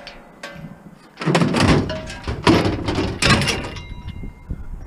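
Scrap metal being handled and loaded: a run of heavy clanks and scraping for a couple of seconds, then a brief metallic ring.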